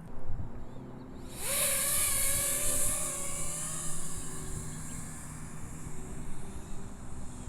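A 6S FPV racing quad's brushless motors and T-Motor Black Bird 4943 props spooling up about a second and a half in with a quick rising whine, then a steady buzzing whine with a hiss of prop wash as it flies.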